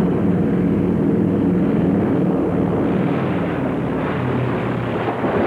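Propeller aircraft, a Tracker maritime patrol plane, droning low overhead on a supply-drop pass, its piston engines giving a steady, wavering drone that eases slightly in the last couple of seconds.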